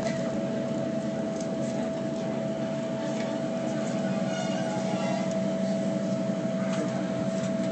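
Train carriage interior: a steady running hum with a constant high whine while the train moves slowly along the platform.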